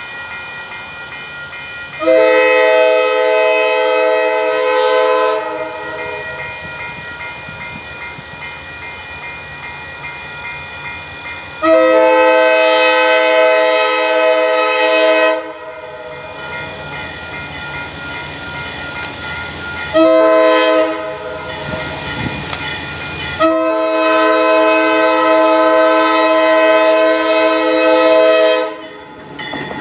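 Ex-D&H Alco RS-11 diesel locomotive's multi-chime air horn sounding the grade-crossing signal, long, long, short, long. A steady train rumble runs between the blasts.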